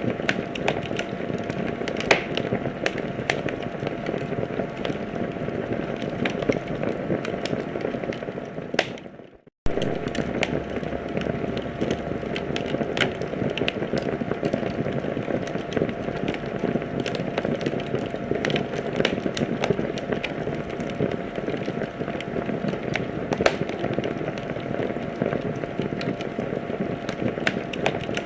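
Wood fire crackling in a fireplace: a steady hiss of burning with frequent sharp pops and snaps. About nine seconds in, the sound fades away, goes silent for a moment, then cuts back in abruptly.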